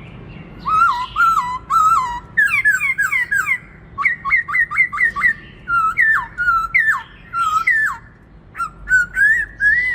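Black-throated laughingthrush singing: loud, clear whistled phrases in a varied series, beginning with three repeated notes, then quick downward-slurred notes and a fast run of short notes, ending in rising whistles.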